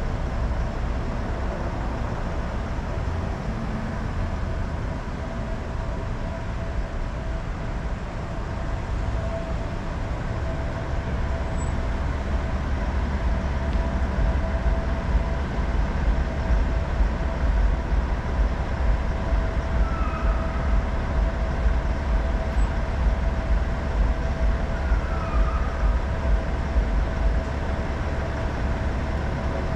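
Car idling with a steady low rumble as it creeps forward and stops, under a thin steady hum; the low rumble gets louder about halfway through.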